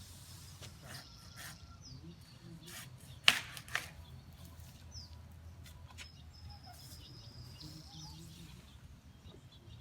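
Birds chirping in short falling calls over a steady low hum, with two sharp clicks a little over three seconds in, the first of them the loudest sound.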